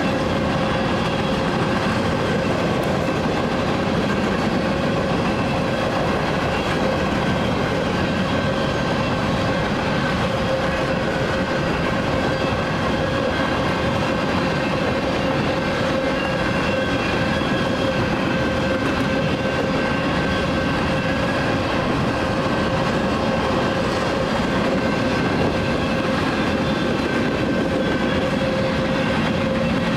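A freight train of grain cars rolling steadily past, its wheels running on the rails with an even rumble and a few held, ringing tones.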